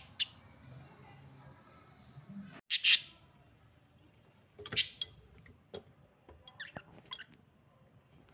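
Budgerigars chirping in short, separate calls, the loudest about three seconds in, with a quick run of small chirps near the end.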